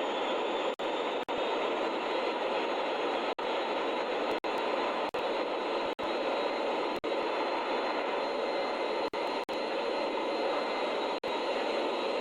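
Aircraft engine noise: a steady, loud rush with a faint high whine on top, broken by brief dropouts to silence every second or so.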